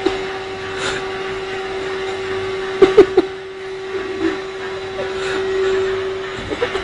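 Remote-controlled vacuum cleaner's motor running with a steady whine. A few sharp knocks come about three seconds in and again near the end.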